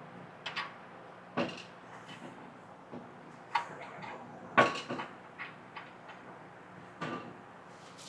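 Scattered metal clinks and knocks, about eight of them, the loudest about halfway through, from a C-clamp and impact socket being handled and fitted over a wheel stud to press it into the axle flange.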